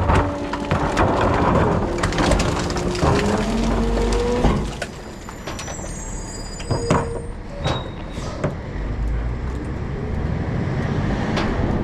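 Rear-loader garbage truck running, with a pitched whine rising for about four seconds before it drops off suddenly. Quieter running follows, with scattered clicks, rattles and a few brief high squeaks.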